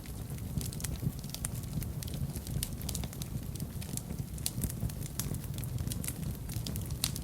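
Fire burning in a fireplace: many irregular crackles and pops over a steady low rumble of the flames.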